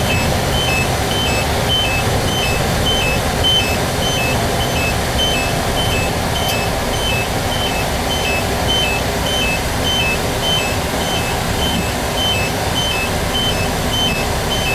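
Kenworth truck cab on the move: steady engine and road rumble, with the turn-signal indicator beeping in an even, alternating two-note tick-tock, about three beeps a second.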